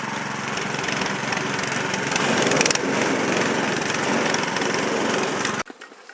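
A small motor running steadily and loudly, cut off abruptly about five and a half seconds in.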